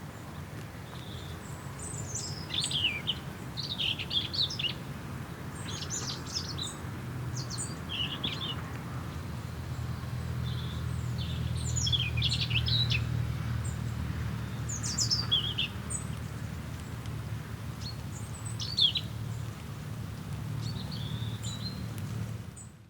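Songbirds chirping and singing in short, quick phrases, with a steady low rumble underneath.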